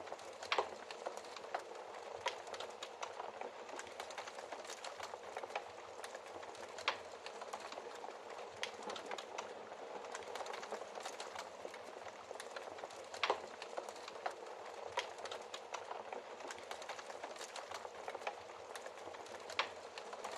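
Wood fire burning in a fireplace: a steady soft hiss with frequent small crackles and a few louder pops, about four of them spread through the stretch.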